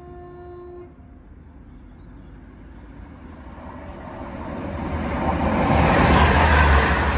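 A Northern Class 195 diesel multiple unit sounds one short horn note, about a second long. The train then approaches and runs past, its rumble and rail noise building to loudest near the end.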